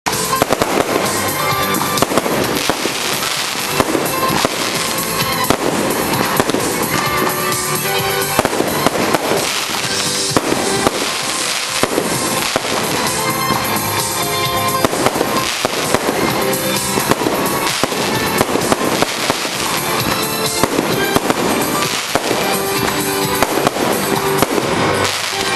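Fireworks display: a dense, continuous barrage of bangs and crackling bursts, with music playing along.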